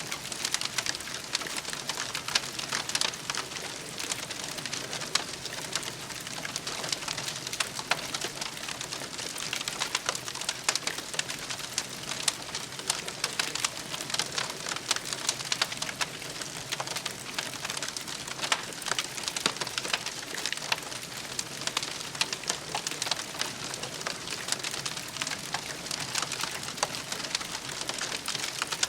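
Campfire burning, the wood crackling steadily with many small sharp pops.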